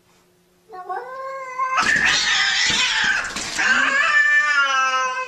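Domestic cats caterwauling in a face-off. A wavering yowl starts under a second in, turns into a louder, harsh, noisy screech for about two seconds, then becomes a long drawn-out yowl again.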